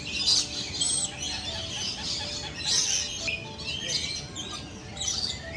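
A flock of birds chirping and calling, with many short high-pitched calls overlapping one another.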